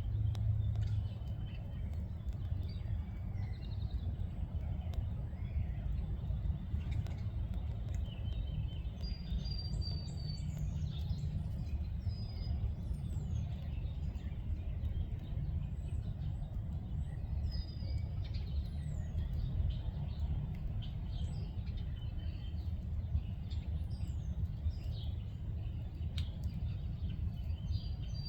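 Songbirds singing and calling: scattered short chirps and quick downward-sliding whistles, over a steady low rumble.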